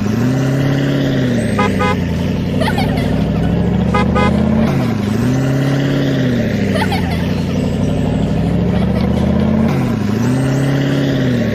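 Vehicle engine running steadily, its pitch dipping and climbing back in the same way about every five seconds, starting and stopping abruptly.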